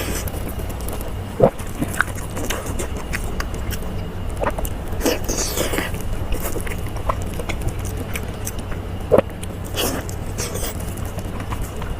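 A person biting and chewing food close to the microphone: scattered short crunches and wet clicks, the sharpest about a second and a half in and again near nine seconds, over a steady low hum.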